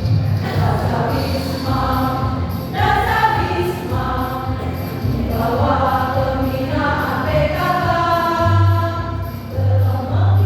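Choir singing a song in held, sustained phrases over low bass accompaniment.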